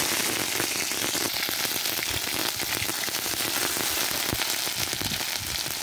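Ginger-garlic paste sizzling and crackling in hot soybean oil in an iron karahi, a steady dense spatter of fine pops, stirred with a metal spatula.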